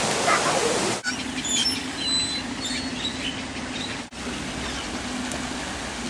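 The steady rush of a large waterfall, cut off suddenly about a second in. Then birds chirping and whistling in short high calls over a steady low hum, the calls dying away near 4 s while the hum carries on.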